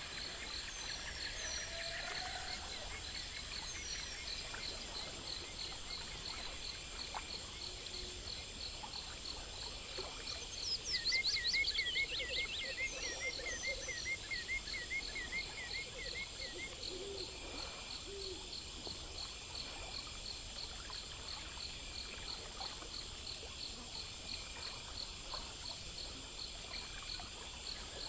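A steady chorus of insects trilling, with several high, fast-pulsing trills running together. About ten seconds in, a louder, quickly repeated call comes in: first a run of falling notes, then a train of short notes that goes on for several seconds before stopping.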